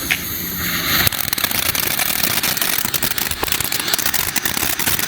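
Sunwing Noisy Glitzy firework fountain: a short hiss, then the fountain erupts about a second in and sprays with a dense, continuous crackle.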